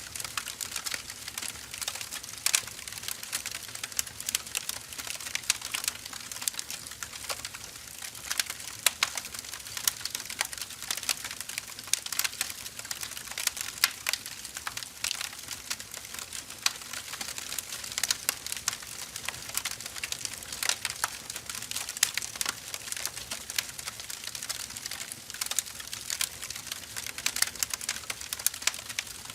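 Firewood burning with a steady, dense crackle of small irregular pops and snaps, a few sharper pops standing out now and then.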